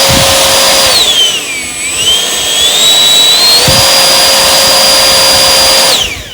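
Freewing F-22 Raptor's 90mm electric ducted fan running at high power with a loud, high-pitched whine; the throttle is eased back about a second and a half in and brought up again, and near the end the fan spools down with a falling whine.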